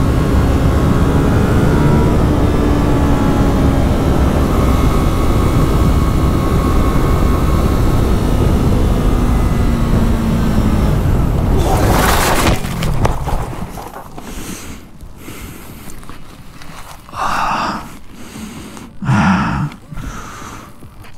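Yamaha R3 parallel-twin engine running under way with heavy wind noise, then about twelve seconds in a sudden loud crash as the motorcycle goes down and slides. The engine noise drops away, leaving the rider's two loud gasping breaths near the end.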